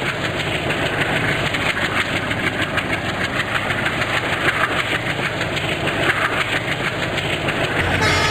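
Train running, a steady loud rumble with a fast rattling clatter throughout.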